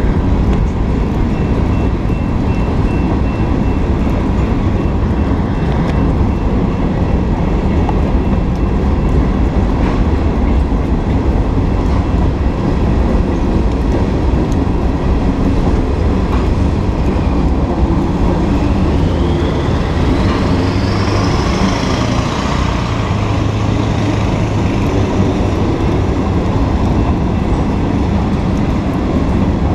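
Freight train rolling past with a steady, loud rumble of wheels on rail. About twenty seconds in, a high squeal rises in pitch for a few seconds.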